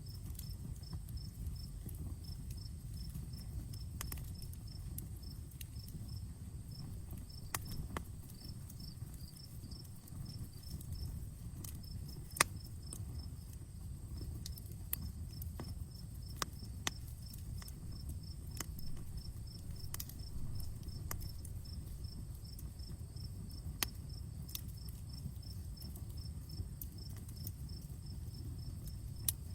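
Outdoor campfire crackling, with scattered sharp pops of burning wood over a low steady rumble, one pop about twelve seconds in standing out loudest. Crickets chirp in rapid, steady trains behind the fire.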